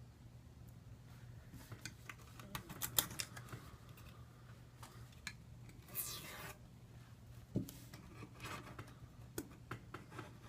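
A scraper scratching and clicking against a smartphone's frame in short, irregular strokes, with one longer scrape about six seconds in, as old screen adhesive is scraped out.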